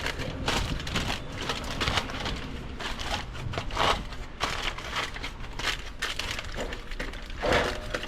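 Aluminium foil crinkling and crunching as it is handled and pressed down over a pan, in a string of irregular short crackles.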